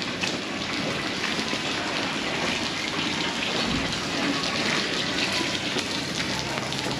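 Heavy tropical downpour: rain falling hard and steady, drops pattering densely on wet surfaces and puddles.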